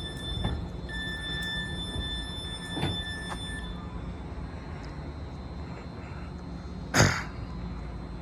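Caltrain Stadler electric multiple unit standing at the platform: a steady low hum with thin high tones that stop about three and a half seconds in, a few light clicks, and one short sharp bang about seven seconds in.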